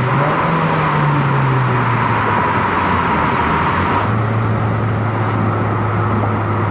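Hyundai Genesis Coupe 2.0 turbocharged four-cylinder, upgraded with a 16G turbocharger, driving through a tunnel: a steady engine drone whose pitch sags slightly over the first two seconds and then holds. About four seconds in, a higher whine and hiss fall away, leaving the low exhaust note.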